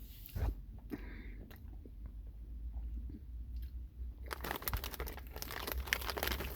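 Close-up chewing of a Warheads Ooze Chewz candy: sparse small clicks at first, then dense crackling from about four seconds in.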